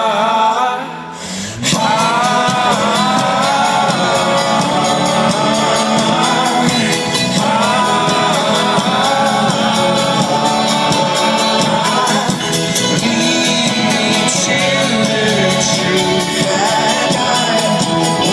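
Live folk-rock band playing loudly with singing. About a second in the sound briefly drops, then the full band comes crashing back in and plays on at full volume.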